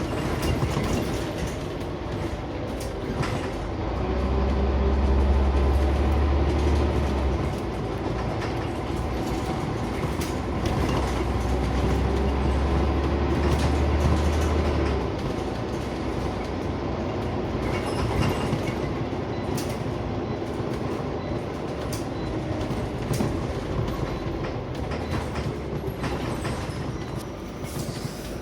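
Interior of a Scania CN94UB Omnicity single-deck bus on the move: steady engine and road noise with frequent rattles and clicks from the bodywork. A deep engine drone swells twice, for a few seconds each time.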